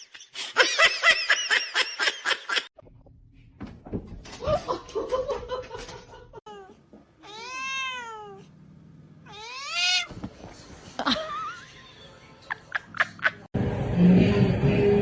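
Domestic cat meowing, with two long meows that rise and fall in pitch about halfway through. Near the start there is quick, repeated laughter.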